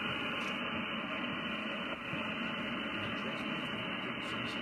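HF amateur radio receiver tuned to 14.346 MHz on 20-metre sideband, giving a steady hiss of band noise with no highs and no station coming through.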